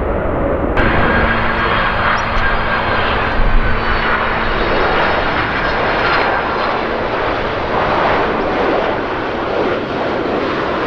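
Large aircraft's engines running loud and steady as it passes close, with a couple of steady whining tones over the noise. An abrupt change about a second in marks an edit.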